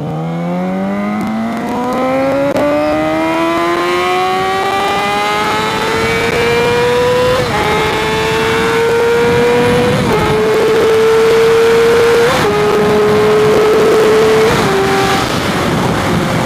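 2015 Yamaha R6's inline-four engine pulling hard under acceleration. Its pitch climbs steadily for about seven seconds, then dips briefly a few times and holds a high, steady note, with heavy wind noise on the microphone.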